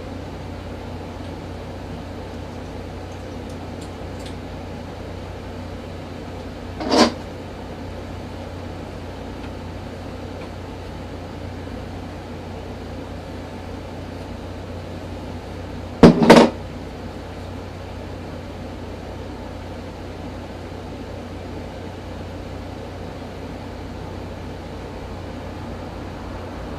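Revlon One-Step hot-air brush dryer running steadily with a low electric hum. It is broken by a short knock about seven seconds in and a louder double knock, the loudest sound here, about sixteen seconds in.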